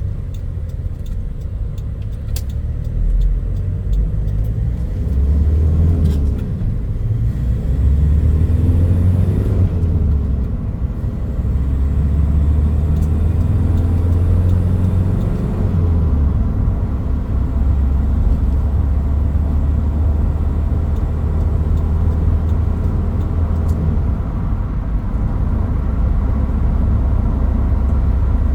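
Toyota Hilux Mighty-X pickup being driven, a deep engine and road rumble heard from inside the cab. The engine note rises and falls a few times in the first ten seconds, then settles into a steady drone.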